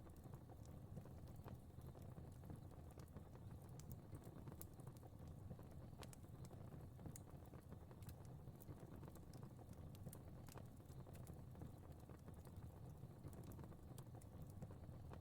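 Faint fire crackling: a steady low rumble of flames with frequent irregular sharp crackles and pops.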